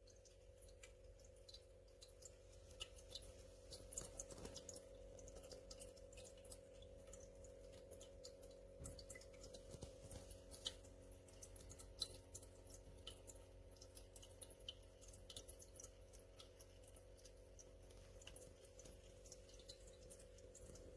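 Faint steady hum of a pet drinking fountain's small electric pump, with many small irregular ticks and drips of water falling back into the ceramic bowl.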